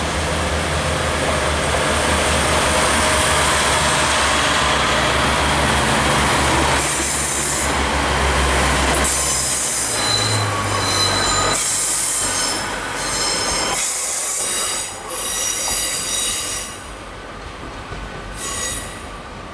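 Class 143 Pacer diesel railbus set pulling out, its diesel engines rumbling under power. From about seven seconds in, the wheels squeal in repeated high-pitched bursts on the curved track, fading near the end as the train draws away.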